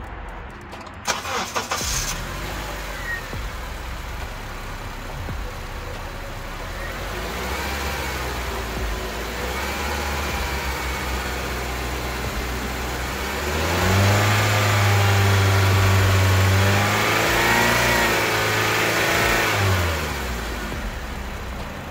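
Honda CR-V 2.4-litre i-VTEC DOHC four-cylinder starting up and idling, then held at higher revs for several seconds before dropping back to idle. This is a test run after a new serpentine belt tensioner and fresh power steering fluid, to hear whether the belt still squeaks.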